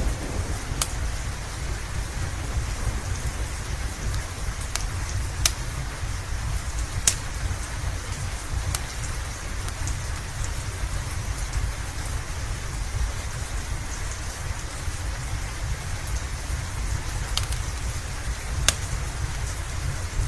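Steady rain falling, with a continuous low rumble underneath, while a wood fire gives a handful of sharp crackles and pops at scattered moments.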